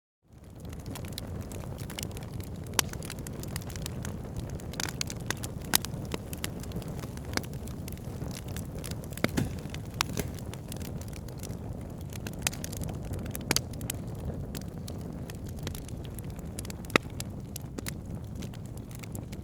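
Wood fire burning: a steady low rumble of flames with frequent sharp crackles and pops, and a handful of louder snaps scattered throughout. The sound fades in from a brief silence at the very start.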